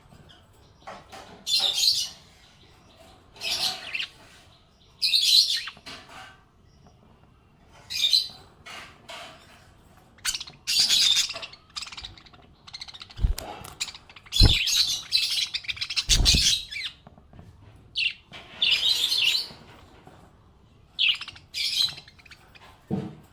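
Budgerigars chirping and warbling in short, high bursts every second or two, with brief pauses between. A few low thumps come in the middle.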